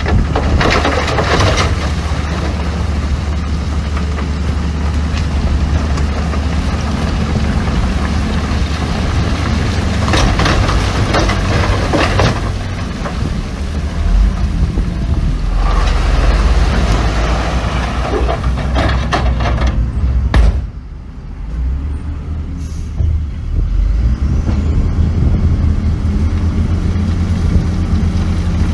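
Heavy diesel machinery engines running, with stretches of noisy hiss laid over the low drone. About two-thirds of the way through, the noise drops sharply for a second or so, then comes back.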